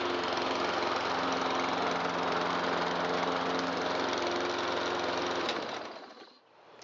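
Briggs & Stratton single-cylinder lawn mower engine running steadily at its governed full-throttle speed, running well after its repair. About five and a half seconds in it is shut off and dies away within a second.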